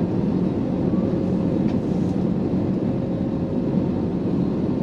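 Steady rush of engine and airflow noise heard inside the cabin of an Airbus A321neo in flight, with its Pratt & Whitney geared turbofans running and a faint steady hum over the noise.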